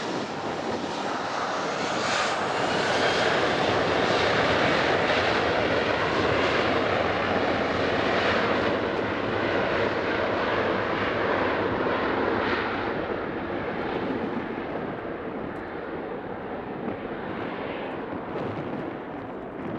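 Boeing 737-800's CFM56 turbofan jet engines at takeoff thrust, a loud even rush that builds to its loudest a few seconds in, then fades with the treble falling away as the jet moves off.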